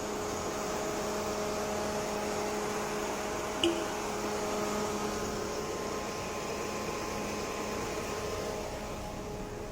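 Opel Tigra's electric radiator cooling fan running with a steady hum, now working again after its fan fault was repaired. A brief click comes about three and a half seconds in.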